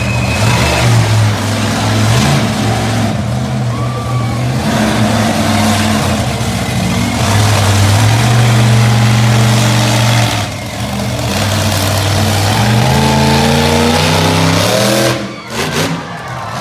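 Monster truck's 526-cubic-inch Brad Anderson Hemi engine revving loud, the pitch rising and falling with the throttle. It lifts off briefly about ten seconds in, climbs in pitch, then drops off sharply near the end before picking up again.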